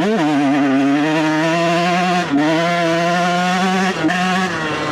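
Dirt bike engine under throttle as the bike rides along. It revs up at the start, holds a steady pitch, and dips briefly twice, about two and four seconds in.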